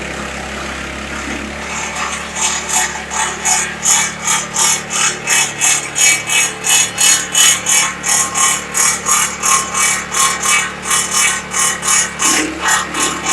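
Drovosek MR300 petrol garden branch chipper running steadily while chipping branches: from about two seconds in, loud, sharp chopping crackles come about two to three times a second over the engine's hum.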